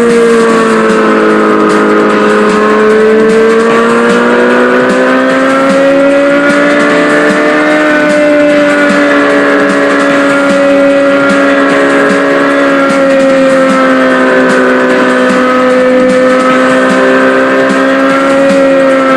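Mini bike engine running steadily at high revs, its pitch slowly rising and falling.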